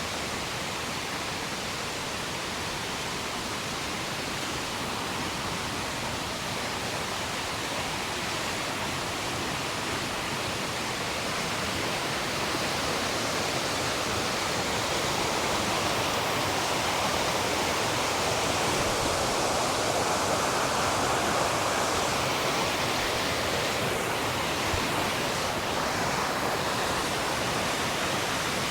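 Fast-flowing river water rushing over rocks, a steady even rush that grows a little louder about halfway through.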